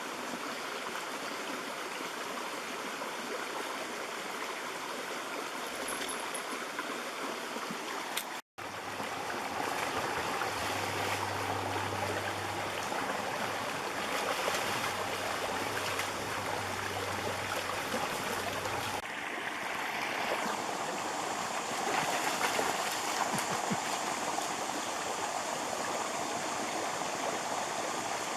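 Mountain stream running over rocks, a steady wash of flowing water. The sound drops out briefly about eight seconds in.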